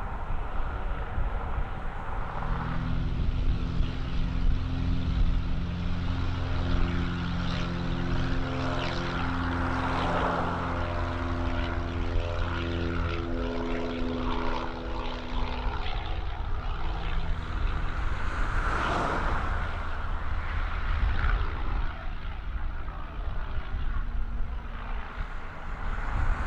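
Twin piston engines and propellers of a Piper Aztec at takeoff power: a steady drone with several held tones that fade out about two-thirds of the way in, leaving a noisy rumble.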